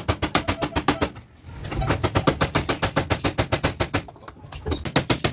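Power tool knocking rapidly and evenly, about ten blows a second, in three runs with short pauses about a second in and about four seconds in.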